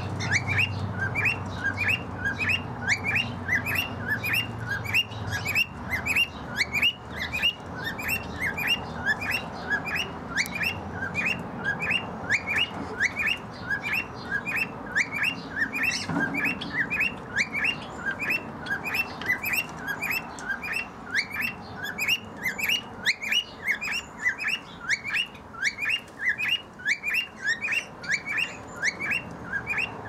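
A bird repeating short, falling chirps, about two or three a second, without a break.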